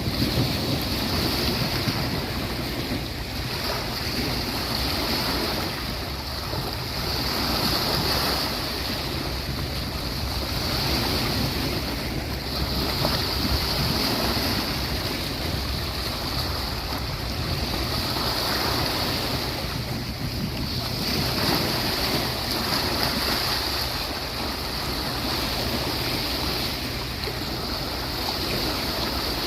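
Sea waves breaking and washing on a beach, a continuous surf that swells and eases every few seconds, with wind noise on the microphone.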